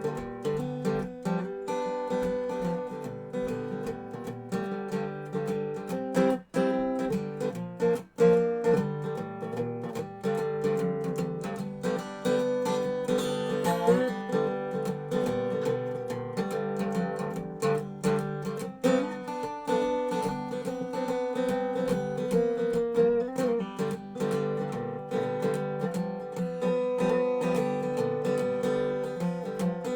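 Dobro resonator guitar played in a blues jam, picked and strummed, with notes sliding in pitch about halfway through and again later. The playing breaks off twice for a moment, about six and eight seconds in.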